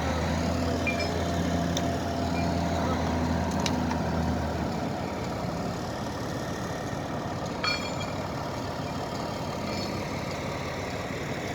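A heavy engine running with a steady low hum that stops about five seconds in, over constant outdoor mechanical background noise, with a brief click near the end.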